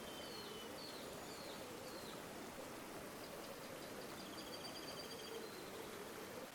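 River water flowing steadily, with small birds calling over it: four short chirps in the first two seconds, then a fast high trill from a little after four seconds in.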